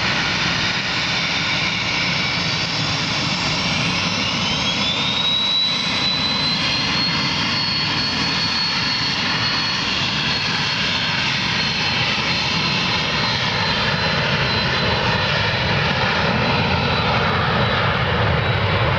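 Jet aircraft engines at takeoff power: a loud, steady noise with a thin high whine that rises in pitch a few seconds in, then holds level.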